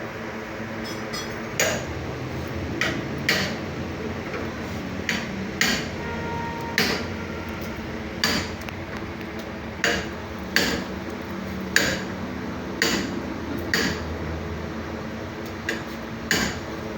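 About a dozen sharp knocks at irregular intervals over a steady background hum.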